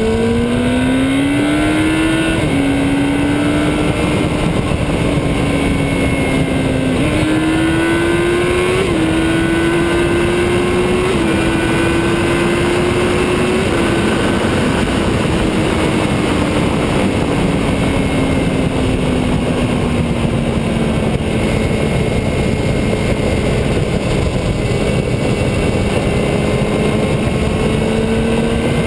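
Motorcycle engine under way, its pitch climbing and then dropping sharply several times in the first fifteen seconds or so as the gears change. It then eases down and holds steady, over a constant rushing noise.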